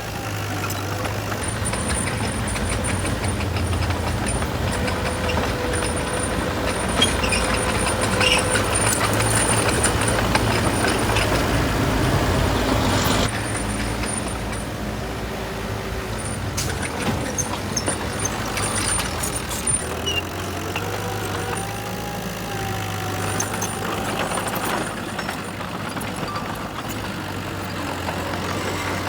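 Heavy diesel construction machinery running steadily, louder for the first half and dropping off sharply about halfway through, with some scattered clanking.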